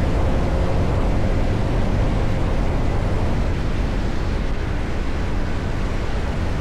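CFMOTO 675NK motorcycle's inline three-cylinder engine running at a steady pace while riding, mixed with the steady rush of wind over the microphone.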